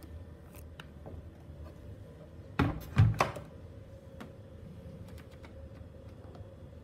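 Door of a Gorenje front-loading washing machine being shut: three loud thuds in quick succession about two and a half seconds in, with a few light clicks before and after.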